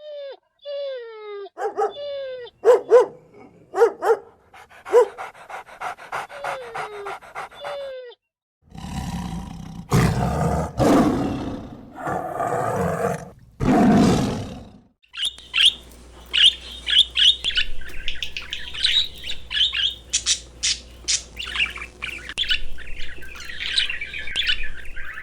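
A run of different animal calls. First come short calls that each slide down in pitch, then about six seconds of loud, rough, noisy calls, then a long stretch of rapid high-pitched chirping.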